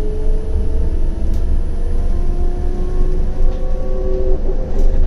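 A CAF Urbos 100 tram running, heard from on board: a steady low rumble of wheels on rails, with the electric traction drive's whine in several tones that slowly shift in pitch.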